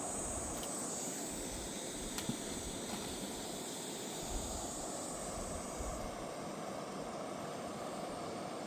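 Steady rushing of a fast mountain river, with a faint high hiss over it that stops about six seconds in.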